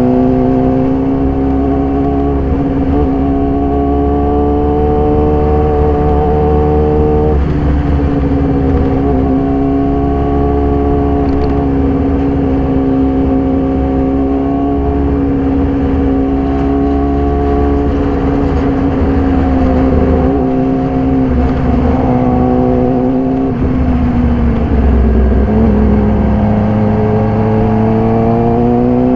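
A 2014 Yamaha YZF-R6's 600 cc inline-four, running through a full SC-Project exhaust, pulls at steady high revs while riding. Its pitch eases down and climbs back a few times, most noticeably about seven seconds in and again near the end.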